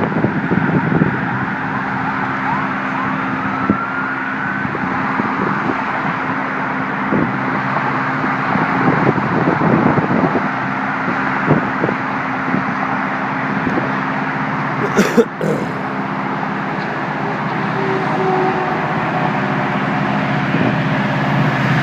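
Steady road traffic noise of cars going by, with engine hum under the rush of tyres. There is a single sharp click about fifteen seconds in.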